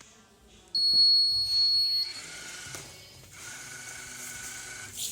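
A single electronic buzzer beep from the Fire Bird V robot: one high, steady tone lasting a little over a second, starting and stopping abruptly. Fainter steady tones and a low hum follow it.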